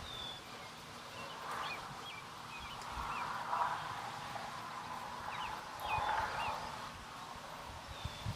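Birds calling outdoors with short, high chirps scattered throughout, over swells of breezy background noise and a low rumble of wind on the microphone.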